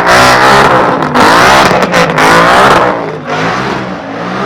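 A car engine revved hard, its pitch rising and falling again and again, then easing off about three seconds in.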